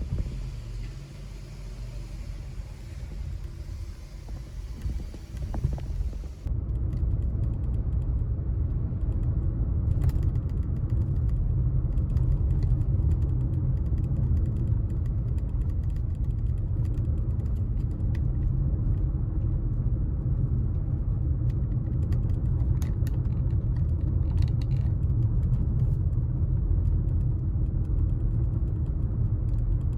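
A car driving, its engine and tyre noise making a steady low rumble. About six seconds in the sound changes abruptly to a louder, duller rumble, with a few faint clicks later on.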